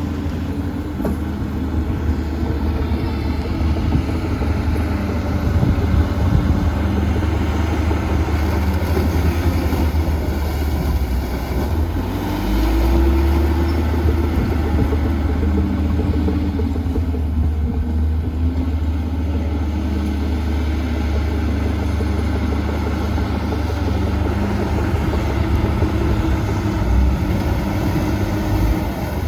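Heavy diesel engine of earthmoving machinery running steadily with a deep rumble, its note rising and falling as it works under load, with a swell about twelve seconds in.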